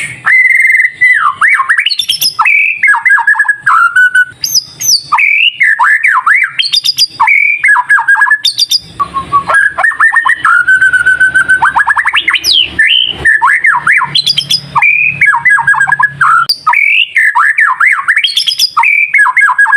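White-rumped shama (murai batu) singing in full, continuous song: fast, varied phrases of clear whistles, rapid trills and swooping chattering notes with only short pauses, the loud 'gacor' song used as a lure to provoke a caged shama into singing.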